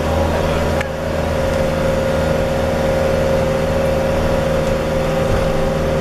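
Vehicle engine running steadily, a low even drone with a brief dip in loudness about a second in.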